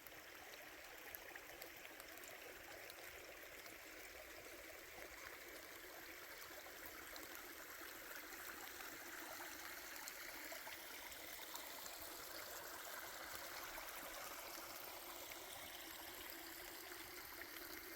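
Faint, steady babble of a small, low-flowing creek trickling over rocks, slowly growing a little louder.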